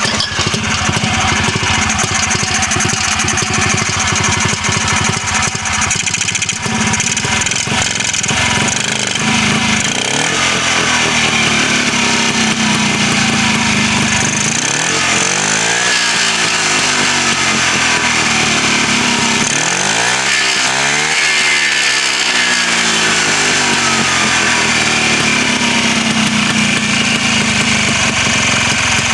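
Freshly rebuilt 1967 Sachs 280A single-cylinder two-stroke snowmobile engine. It starts up and runs steadily on a non-original carburetor and muffler, with its revs swinging up and back down twice midway.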